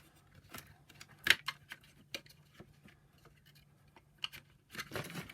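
Hands fitting the plastic parts and wiring of a vacuum power nozzle back together: scattered light clicks and taps, one sharper click about a second in, and a brief rustle near the end.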